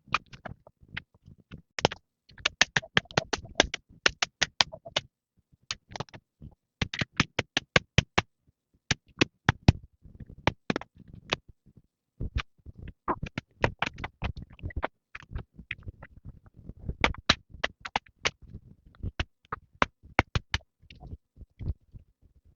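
Bamboo being chopped with a machete: sharp, quick knocks in runs of several strikes, with short pauses between runs.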